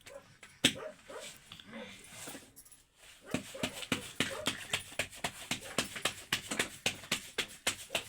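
A dog yipping and whimpering in short calls. From about a third of the way in, a steady run of sharp knocks follows, about three a second.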